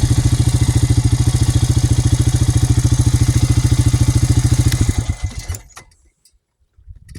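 An engine idling with an even, rapid putter, then shut off about five seconds in and running down to quiet.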